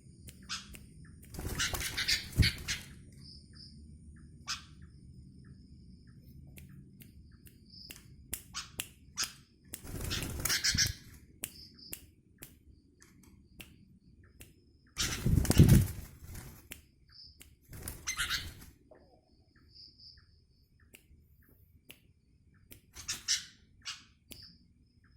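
A sooty-headed bulbul flapping its wings in five short flurries of about a second each during hand-taming training. Small clicks fall between the flurries, and faint insect chirps repeat in the background.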